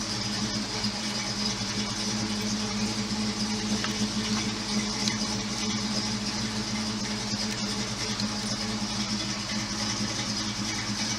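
1969 Ford Mustang Mach 1's V8 engine running steadily, an even, unchanging engine note with no revving.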